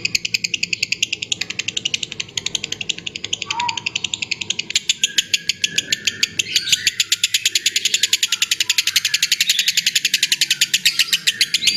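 Lovebird giving its long, unbroken chattering trill ('ngekek panjang'): a rapid, evenly spaced stream of high-pitched chirps, with a few lower squeaky notes mixed in.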